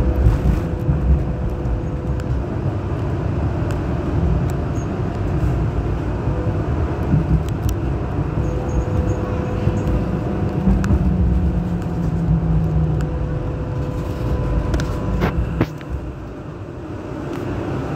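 Hong Kong Light Rail Phase I light rail vehicle running along the track, heard from inside the car: a steady low rumble of wheels and running gear with a faint whine from the traction equipment. A higher hum rises for a few seconds midway. After a couple of clicks near the end, the rumble drops off suddenly.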